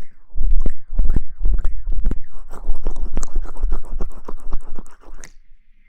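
Close-miked ASMR scratching and rustling right on the microphone: a dense, irregular crackle of many quick scrapes that stops about five seconds in.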